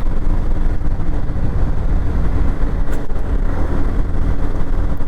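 Motorcycle running steadily at road speed, heard as a continuous low rumble of engine, wind and road noise on the rider's camera microphone.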